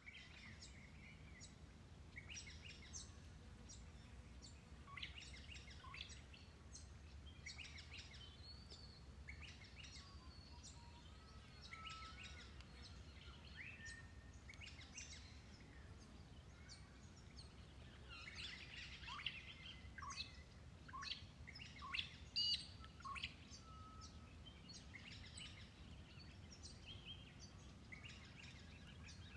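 Several birds chirping and calling with short, quick notes, faint throughout and busiest about two-thirds of the way in, over a steady low background noise.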